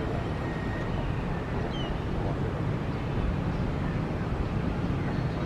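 A steady low rumble of outdoor background noise, even in level throughout, with no distinct engine tone or separate event standing out.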